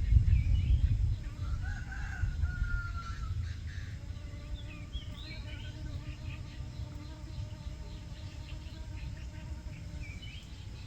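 A rooster crows once, a single held call of about two seconds, with small birds chirping at intervals. A low rumble, like wind on the microphone, is strongest in the first second.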